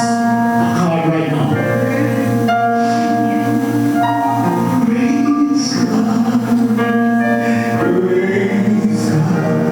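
Gospel worship music: voices singing over held keyboard chords.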